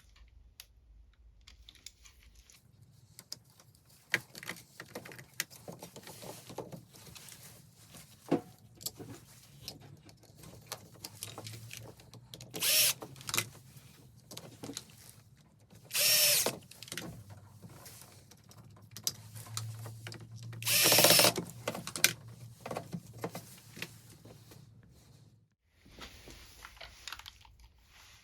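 Power screwdriver or drill running in three short runs of about a second each, over a low steady hum, with scattered clicks and knocks of tools and parts being handled.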